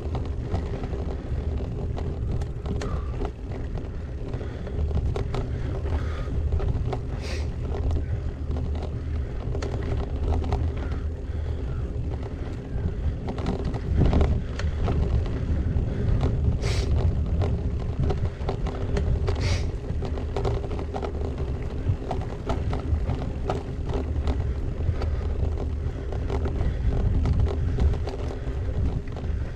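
Gravel bike riding over a rough track: wind buffets the mic while the tyres rumble and the bike rattles, with a steady hum underneath and a few short sharp ticks.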